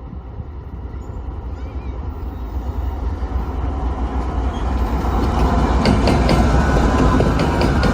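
Lead GE ES44AC diesel locomotives of an intermodal train approaching: a low engine rumble grows steadily louder, and from about five seconds in the clicks of wheels over the rail joints join it.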